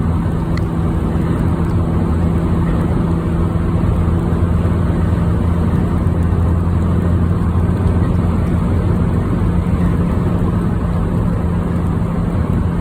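Car driving at road speed, heard from inside the cabin: a steady low engine drone under a constant rush of tyre and wind noise.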